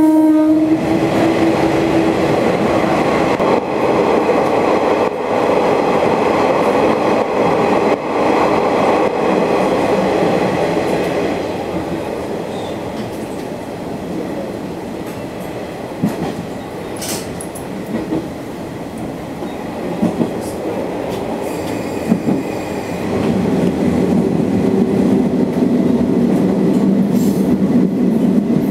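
Sanriku Railway diesel railcar running along the track: a steady rumble of wheels and engine that eases off about halfway, with a few clicks of the wheels over rail joints. A steady engine note comes up again near the end.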